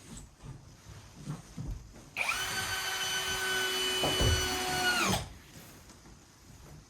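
Electric drill running for about three seconds: a steady whine that starts suddenly about two seconds in and cuts off, with faint knocks before and after.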